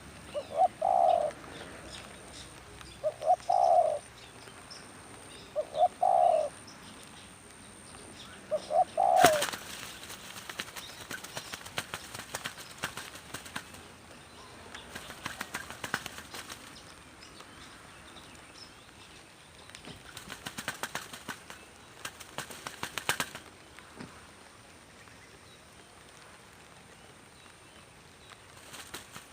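Spotted dove cooing four times, a phrase every two to three seconds. About nine seconds in, a sudden burst of wing flapping and rustling starts, then comes in bursts and stops a few seconds before the end.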